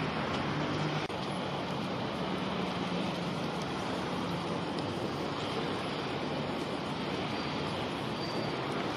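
Steady rumble of distant city traffic mixed with wind, with a low hum fading out over the first few seconds and a few faint, short high bird notes near the end.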